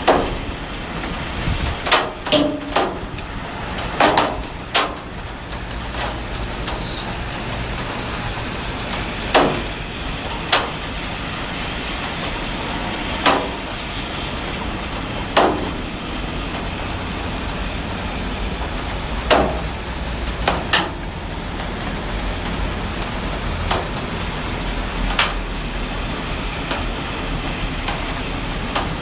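Heavy rain falling steadily, with about a dozen sharp, irregularly spaced knocks of water striking a hard surface.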